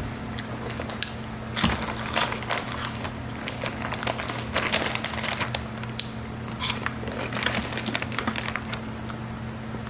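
Close-up crunching and chewing of Pirate's Booty aged white cheddar rice and corn puffs: an irregular run of short crisp crunches over a steady low hum.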